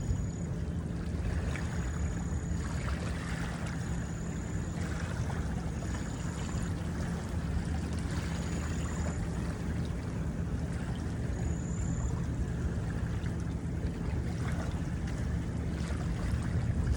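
Steady low drone of a boat's engine on a river, over a wash of water noise. A short high chirp repeats about every two seconds.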